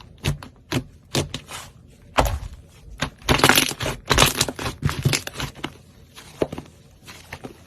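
A knife cutting through dry soap: irregular crisp crunches and cracks as the blade breaks through it, with the loudest, longest crunches between about two and five seconds in, then fainter near the end.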